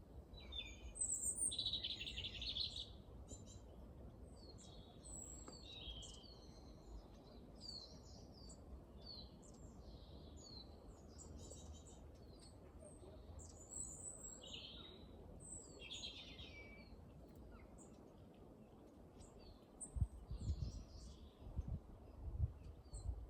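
Small woodland birds calling and singing, with many short high chirps and trills throughout; the loudest is a dense trill about a second in. A few low thumps come near the end.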